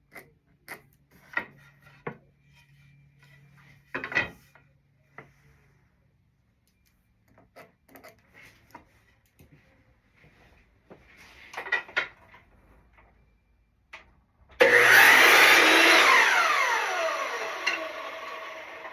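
Boards knocked and clattered as they are handled, then about two-thirds of the way in a power saw starts suddenly and its motor winds down with falling pitch, getting steadily quieter.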